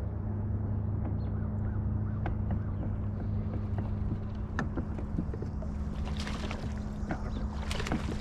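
A boat motor running steadily with a low even hum, with scattered light clicks and a couple of short water-like rushes near the end.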